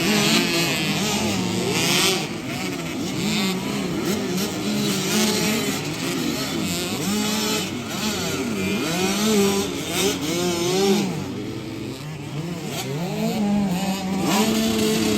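Several 65cc two-stroke motocross bikes revving hard together, their engine notes rising and falling over and over as they race through the corners.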